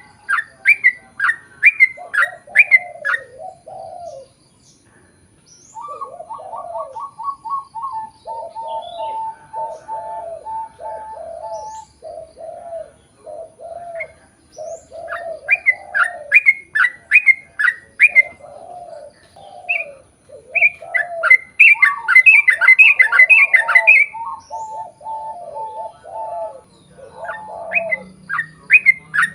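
Yellow-vented bulbuls (trucukan) singing a long, rapid chattering song: quick series of short falling notes over lower bubbling phrases and runs of even repeated notes, with a brief pause about four seconds in.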